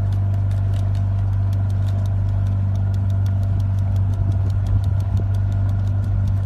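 A motor or engine running steadily with a low, even hum and rapid, regular ticking, about six ticks a second.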